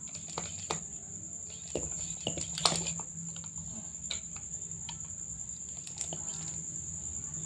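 A steady high-pitched insect trill, like a cricket's, over a low hum, with scattered light clicks and knocks, the sharpest about two and a half seconds in.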